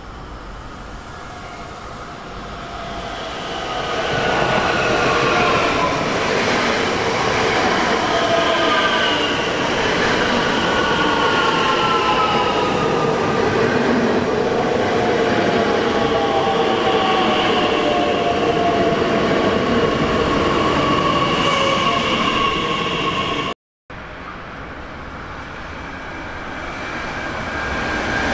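A train rolling past, its wheels squealing in several high tones that slide slowly downward over the rumble of the passing cars. It builds up over the first few seconds and then stays loud. After an abrupt cut about 24 seconds in, another train approaches and grows louder near the end.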